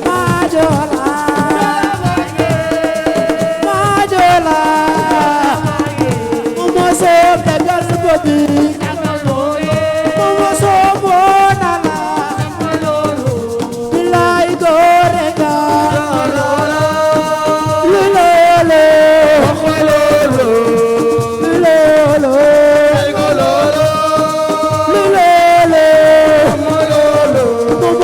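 Live assiko band music: a stepping melody line over steady percussion and a rattle.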